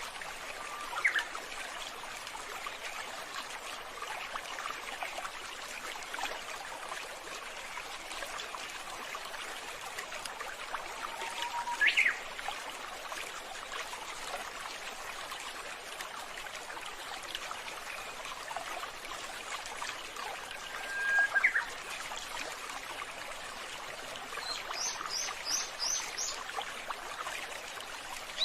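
Water trickling steadily, with three single short bird calls spread through and a quick run of about five high chirps near the end.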